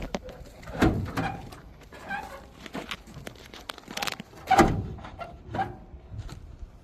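A series of sharp metal clunks and knocks, the loudest about four and a half seconds in, as the stuck hood of an old junked car is worked open.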